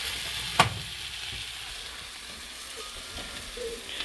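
Steak, bell peppers and onions frying in a cast iron skillet: a steady sizzling hiss. There is one sharp click about half a second in.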